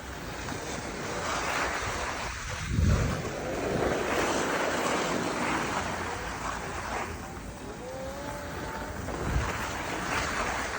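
Wind rushing over the microphone in swelling gusts, with low buffeting thumps about three seconds in and again near the end.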